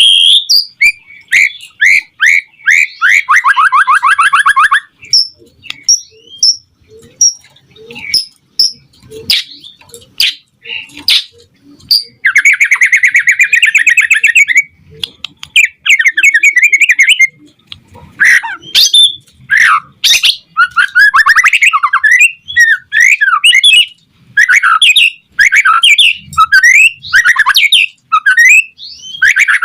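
White-rumped shama singing in full voice: a fast, ever-changing song of clear whistles, chirps and harsh rapid trills, with two long rattling trills, one a few seconds in and one near the middle.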